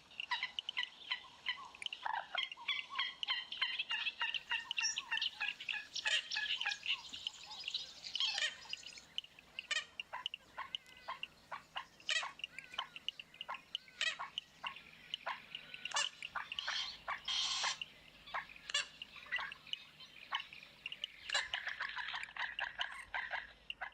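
Birds calling: a dense run of chirps and squawks for the first eight seconds or so, then separate sharp chirps at irregular intervals.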